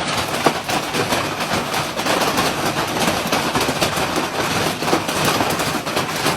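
Hailstones pelting down in a dense, continuous clatter of rapid hits.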